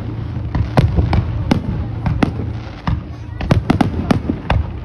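Fireworks display: aerial shells bursting in a rapid, irregular string of sharp bangs, thickest in the second half.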